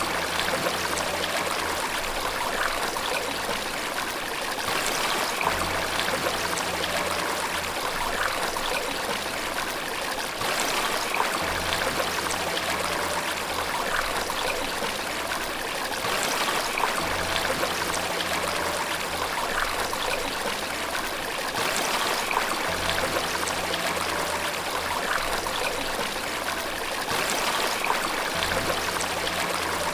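Steady running water with an even, rushing sound. Under it, soft low music notes change about every five seconds.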